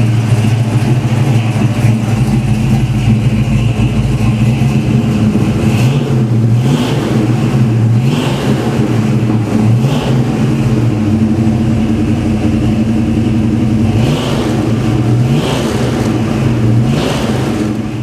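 1970 Chevelle SS454's 454 big-block V8 idling with a deep rumble. From about six seconds in it is blipped several times, each a short rise in pitch.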